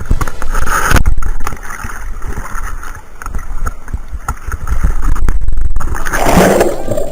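Rushing water of a waterfall, with heavy rumbling buffeting on the microphone that comes and goes in uneven surges.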